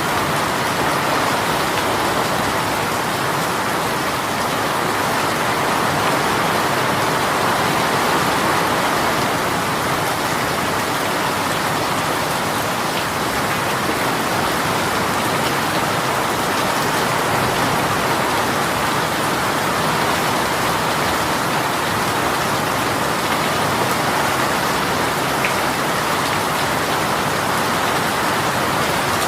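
Heavy shower of rain falling steadily on a surface, a dense even patter.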